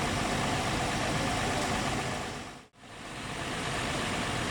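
Bus engine idling steadily; the sound drops away briefly about two and a half seconds in, then comes back.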